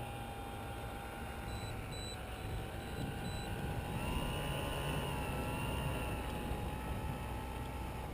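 Brushless electric motor and 13x7 wooden propeller of a Dynam Waco RC biplane whining at low throttle as it taxis on the ground, the pitch rising a little about halfway through, then winding down at the end as the throttle is cut. Wind rumbles on the microphone underneath.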